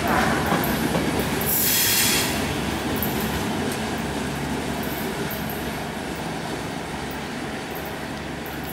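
Intercity Notte passenger coaches rolling over the rails on a curved station track, a steady rumble that fades as the train draws away. About a second and a half in, the wheels give a brief high-pitched squeal.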